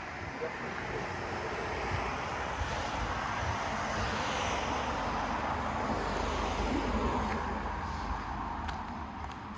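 A vehicle passing by: a steady rushing noise that swells over several seconds to a peak in the middle and then fades away.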